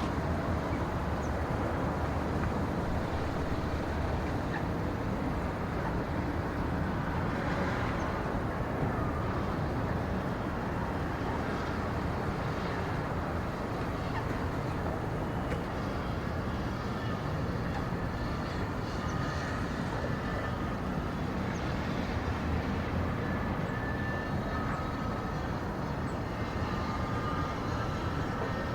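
A steady low rumble of ambient noise, with faint thin tones appearing in the second half.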